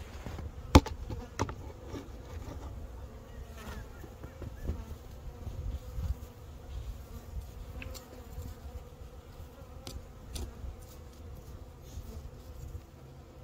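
Honeybees buzzing at a hive entrance, a steady hum, with a few sharp knocks from handling around the hive, the loudest about a second in.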